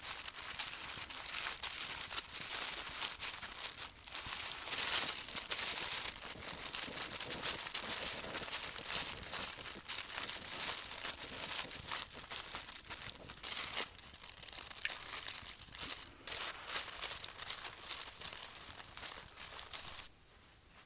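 Continuous crinkling and rustling of something being handled, with dense irregular crackles; it stops suddenly near the end.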